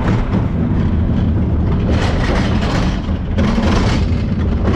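Garbage truck's diesel engine running under load, a loud steady rumble.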